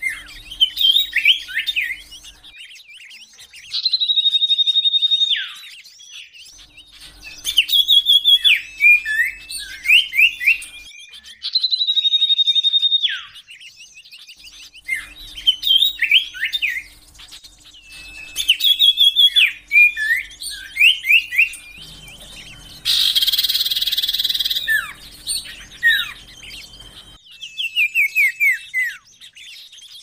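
Common iora (cipoh) song from a bird-lure recording: a long steady high whistle, then quick clusters of sharp, sliding and trilled notes, the phrase repeating every few seconds. About two-thirds of the way in comes one harsh, buzzy rasp, the loudest sound.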